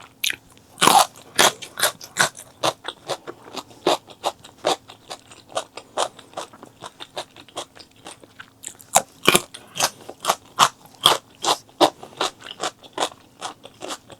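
A person chewing and biting food close to the microphone, wet mouth clicks and crunches in a steady rhythm of about three a second, with the loudest bites about a second in and about nine seconds in.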